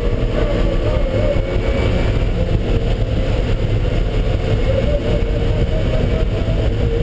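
Car engine running hard at speed on a race track under steady road and wind noise; the engine note holds fairly level with small changes in pitch.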